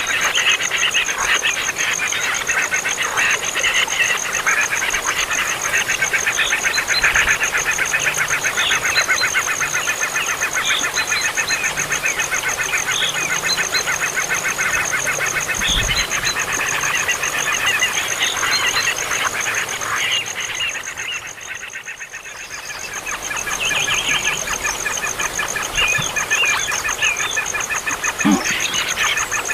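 Baby birds making begging calls: a dense, continuous chatter of rapid repeated calls, dropping away briefly about two-thirds of the way through before picking up again.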